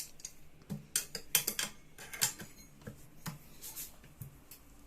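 Irregular metal clinks and taps of hand tools on a Honda PCX 150's CVT pulley as the pulley nut is tightened.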